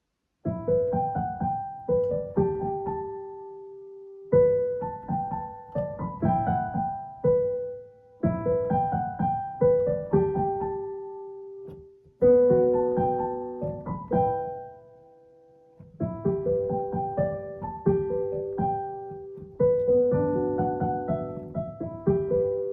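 Solo piano music: a slow, gentle melody played in phrases of about four seconds, each fading away on a held note before the next begins.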